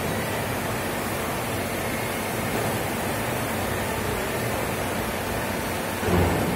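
Steady rushing machine noise from a CNC bed milling machine at work, with a brief louder swell near the end.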